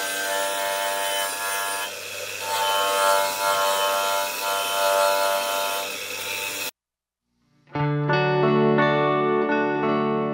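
Steady rasping power-tool noise with held musical tones over it, cutting off abruptly about seven seconds in; after about a second of silence, distorted electric guitar music starts.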